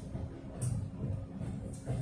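Melbourne Metro electric suburban train running: a steady low rumble with a constant hum, and two short hissy clicks, one about half a second in and one near the end.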